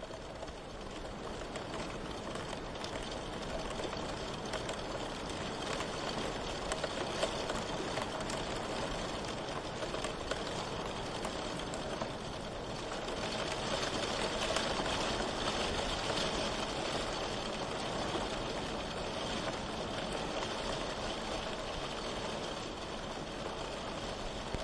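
Steady rain, a continuous hiss with faint scattered drop ticks, fading up over the first second or two and swelling slightly in the middle.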